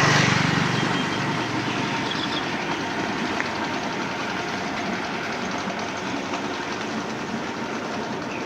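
Steady motor traffic noise, loudest in the first second as an engine passes close by, then an even rumble and hiss.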